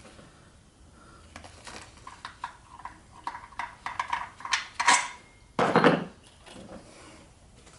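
Hand tools and metal parts clinking during engine-bay work: a run of light metallic clicks and taps, then one louder knock about six seconds in.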